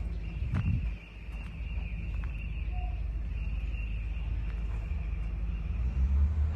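Excavator diesel engine running steadily with a low, even throb, growing louder about six seconds in, with a few light clicks about half a second in.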